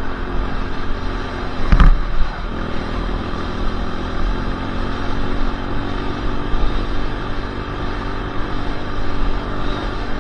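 Dirt bike engine running steadily, with a sharp knock about two seconds in.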